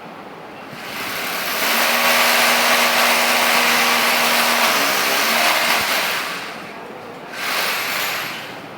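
A motor-driven machine runs for about five seconds, a loud rushing noise over a steady hum, then stops and runs again briefly near the end.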